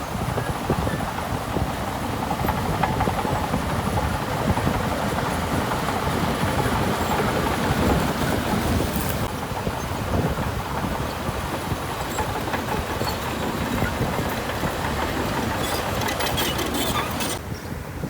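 Heavy diesel earthmoving machinery working: a steady low rumble with a dense clattering rattle, which thins out abruptly near the end.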